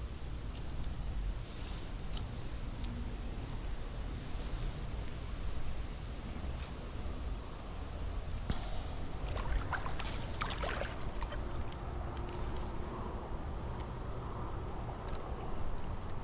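Steady high-pitched chorus of insects, unbroken throughout, over a low rumble. A few brief clicks come a little past the middle.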